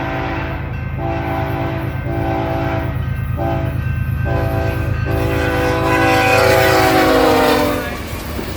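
Air horn of BNSF ES44C4 locomotive #8328 sounding a grade-crossing warning as it passes: several blasts, a few of them short, then a long final blast that drops in pitch as the locomotive goes by. Underneath is a steady low rumble from the passing train.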